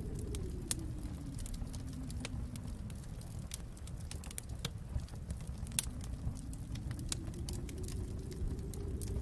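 Wood fire in a fireplace crackling, with frequent irregular sharp pops and snaps over a low rumble that eases in the middle and swells again near the end.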